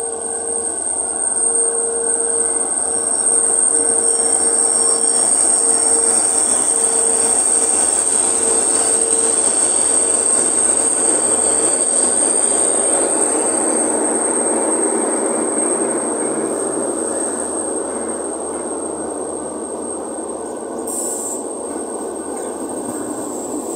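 Express train hauled by an electric locomotive running past on LHB coaches: steady wheel-on-rail noise that grows loud as the locomotive and first coaches pass and eases off as the rest of the coaches go by, with a steady high-pitched whine throughout.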